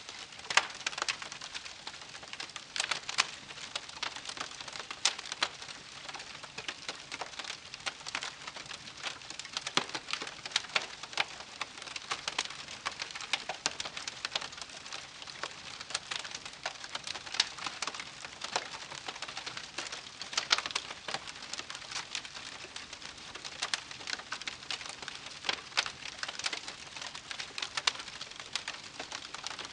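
Wood campfire burning, with dense irregular crackling and frequent sharp pops and snaps over a soft steady hiss.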